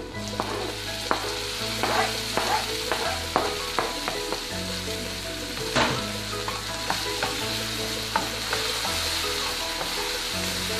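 Chopped onion, tomato and green chillies sizzling in hot oil in a nonstick frying pan. A wooden spatula stirs them, with frequent short clicks and scrapes against the pan.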